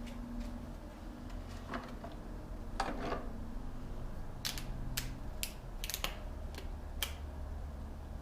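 Handling while filling new engine oil: a couple of soft scrapes, then a run of about seven sharp plastic clicks and light knocks in the second half, over a steady low hum.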